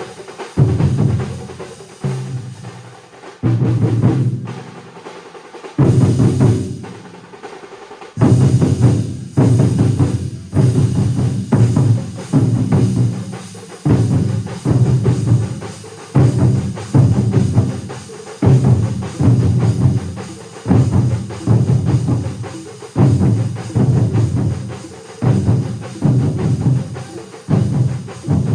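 A large massed drum ensemble playing together in a loud, driving rhythm. Heavy low drum strokes land about once a second, with a brief lull about six seconds in.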